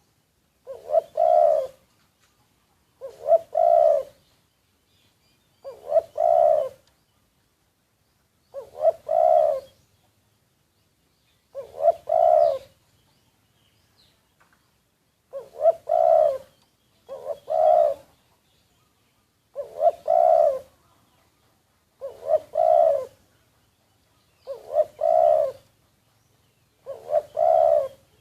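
Spotted dove cooing, a multi-note phrase repeated about every two and a half seconds, eleven times.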